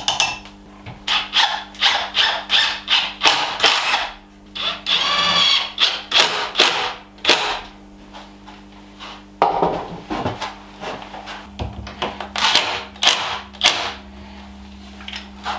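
A run of short scraping and rubbing strokes from hand work, about one or two a second, with a brief pitched squeak about five seconds in and a pause past the middle, over a steady low hum.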